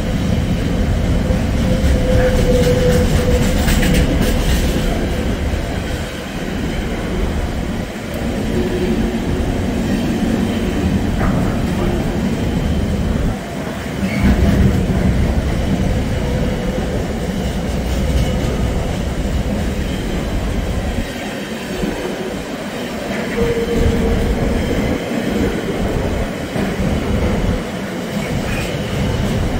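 London Overground electric train running on the rails: a steady rumble with a few brief wheel squeals.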